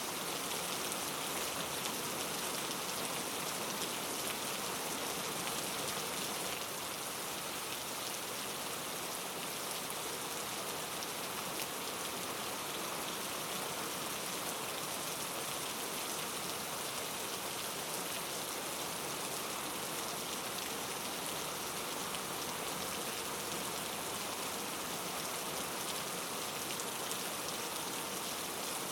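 Steady rain falling, a continuous hiss of many drops hitting a surface, easing slightly about six seconds in.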